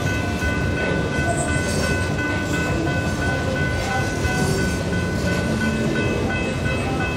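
Freight cars rolling steadily across a steel trestle bridge: a continuous rumble with thin, steady high tones running through it.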